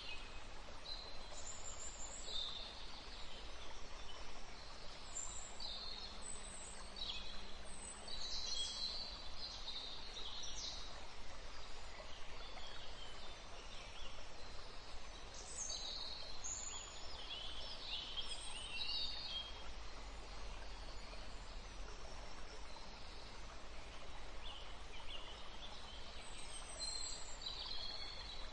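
Birds chirping on and off over a steady low background hiss.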